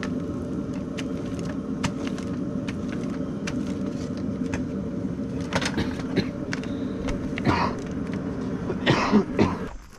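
Forced-air multi-fuel kerosene space heater running with a steady droning hum, cutting off abruptly just before the end. Scattered light clicks and a couple of louder scuffing noises near the end sound over it.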